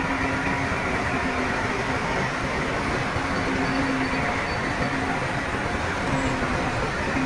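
Bulldozer's diesel engine running steadily at work, with a faint droning tone that comes and goes.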